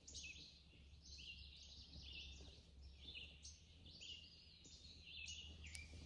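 Faint birdsong: small birds singing an unbroken run of quick, high chirping phrases over a low, steady hum.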